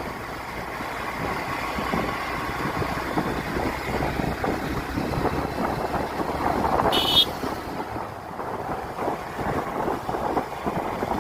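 Steady road noise from a moving vehicle, with wind buffeting the microphone. A brief high tone sounds about seven seconds in.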